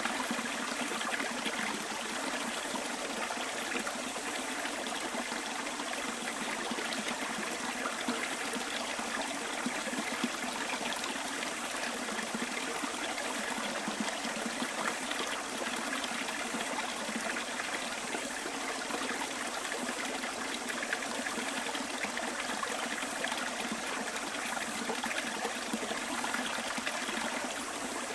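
Small bush stream flowing and trickling steadily, an even rush of water with no breaks.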